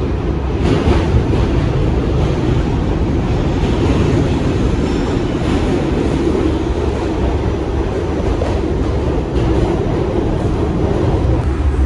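New York City subway train running at speed, heard from inside the car: a steady, loud rumble of wheels on rail, with a few sharp clicks from rail joints.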